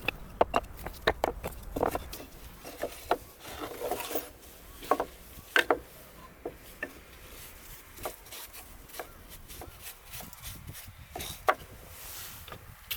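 Irregular wooden knocks and clicks with some rubbing and scraping, sharp hits spaced unevenly, thinning out in the second half: hand work on a garden path.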